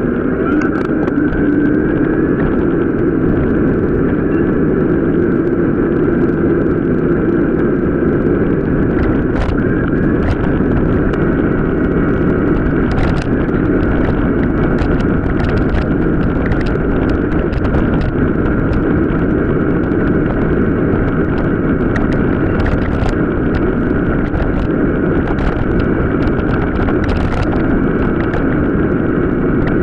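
Mountain bike riding over rough off-road track: continuous tyre rumble and wind on the microphone, with frequent clicks and rattles from the bike.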